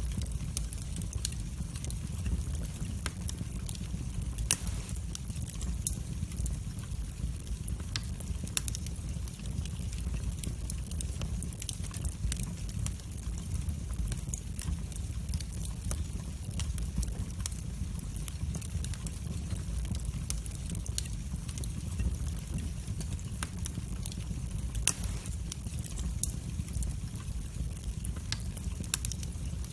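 Wood fire burning in a fireplace: a steady low rumble of flames with scattered crackles and sharp pops, two of them louder, about four seconds in and near the end.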